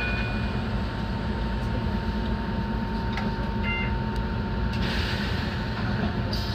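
Enoden electric train running between stations, heard from the cab: a steady low rumble of wheels and motors with a thin steady whine. A few short high beeps sound at the start and again about four seconds in, and a hiss rises for the last second and a half.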